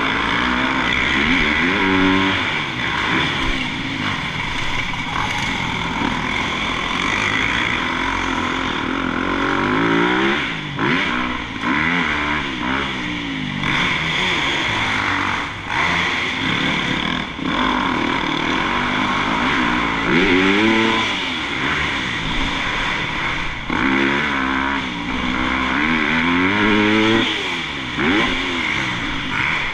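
Motocross bike engines revving hard and backing off over and over as they ride the track, the pitch climbing and dropping every few seconds.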